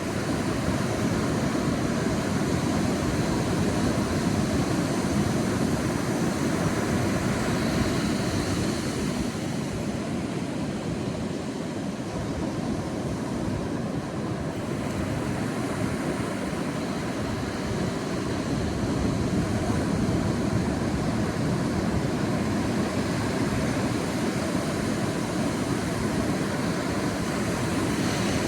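Sea waves breaking and washing onto a beach: a continuous surf noise that swells and eases slowly, rising twice.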